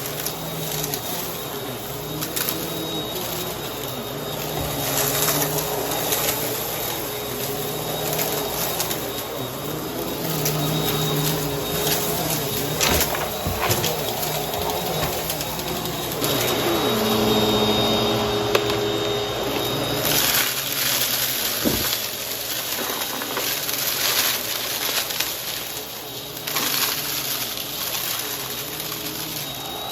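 Upright vacuum cleaner running over a debris-strewn floor, its motor and brushroll humming steadily while it picks up crunchy debris with frequent small crackles and clicks.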